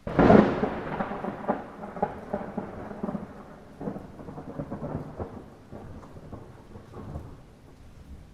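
A sudden thunderclap that rolls on in a series of crackling peals, fading away over about seven seconds, over steady light rain.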